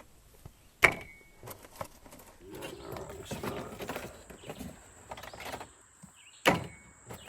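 Camp cooking gear being sorted: two sharp knocks, each with a brief metallic ring, about a second in and near the end, with softer rummaging and clatter of utensils and dishes between them.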